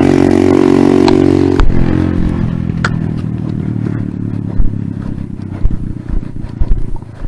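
Motor vehicle engine running steadily close by. About a second and a half in the sound changes abruptly, then fades gradually as the vehicle moves off.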